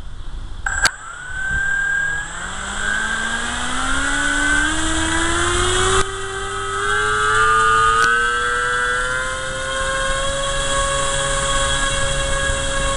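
Monster Power 160 brushless electric motor driving a 14.5x11 four-blade APC propeller, spooled up about a second in: its whine rises steadily in pitch for about ten seconds, then holds level at full throttle over a rush of air, with a few sharp clicks along the way. This is a static full-power run drawing about 2000 watts and 49 amps.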